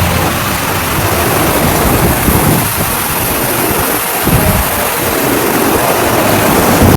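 Cyclone wind and heavy rain roaring steadily, with gusts rumbling on the microphone.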